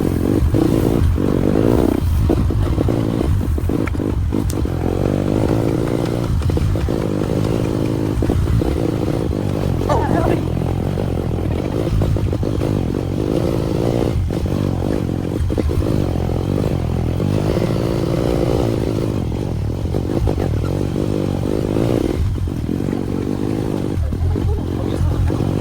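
Motorcycle engine running steadily while being ridden, with frequent knocks and rattles over the road.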